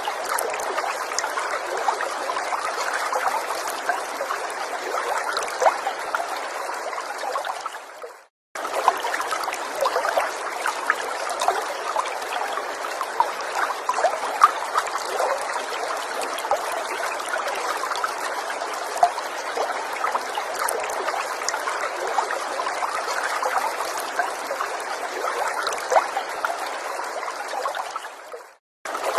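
Shallow forest stream trickling and babbling over stones, a steady wash dotted with many small splashes. It fades out to brief silence twice, about 8 seconds in and again near the end, each time coming straight back.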